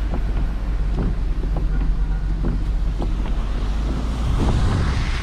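Wind buffeting the microphone over the steady low rumble of a car driving.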